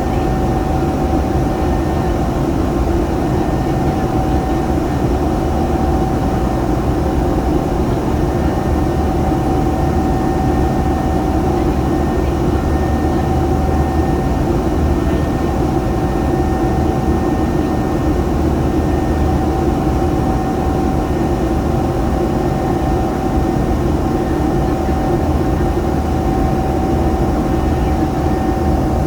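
Airliner engines and airflow running steadily with a constant whine, heard from inside the cabin.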